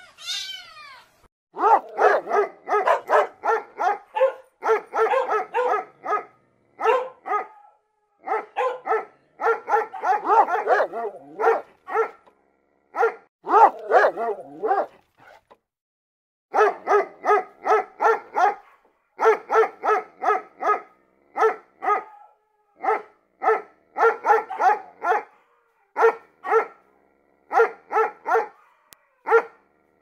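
A kitten's meow tails off in the first second. Then a dog barks in quick runs of short barks, about four a second, with brief pauses between the runs.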